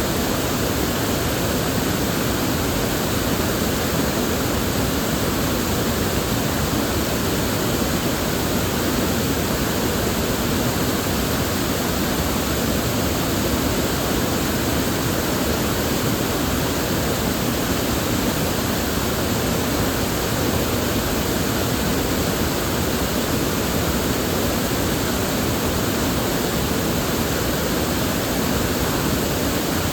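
River water flowing steadily, a constant even rush with no breaks or distinct splashes.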